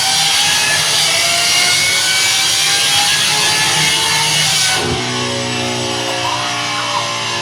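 Lamborghini Revuelto's V12 through a Gintani exhaust at full throttle on a dyno, very loud, its pitch climbing steadily as it revs up. About five seconds in it cuts off abruptly and music with guitar takes over.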